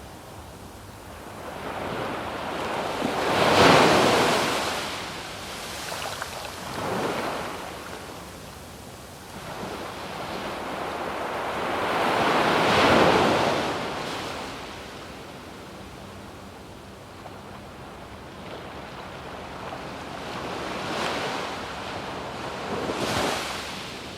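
Surf on a sandy beach: waves break and wash up in slow swells, the biggest about three seconds in and again near the middle, with smaller ones near the end.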